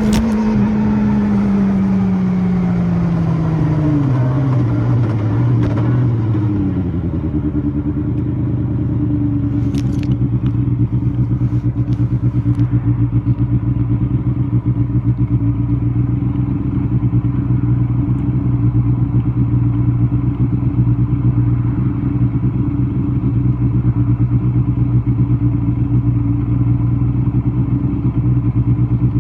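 First-generation Kawasaki Balius 250 water-cooled inline-four engine, its revs falling away over the first several seconds and then settling into a steady idle. A few light clicks sound around ten seconds in.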